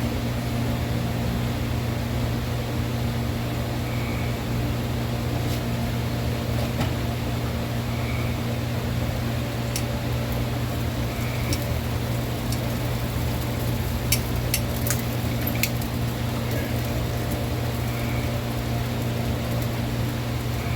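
A steady low mechanical hum, like a fan or small motor running. A few light clicks and ticks sound in the second half.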